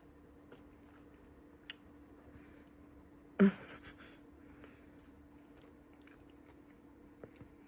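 A person chewing a mouthful of cake, with faint small mouth clicks, and one short, sharp, loud sound about three and a half seconds in.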